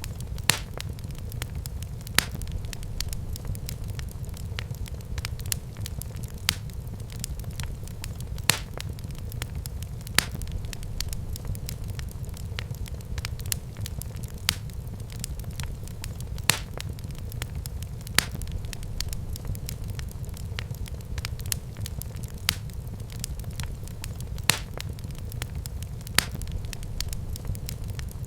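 Wood fire in a fireplace crackling, with sharp pops every second or two over a steady low rumble of burning.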